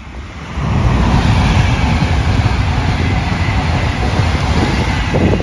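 Multi-car express passenger train passing at speed: a loud, steady rush of wheel rumble and air noise that builds about half a second in and stops abruptly near the end.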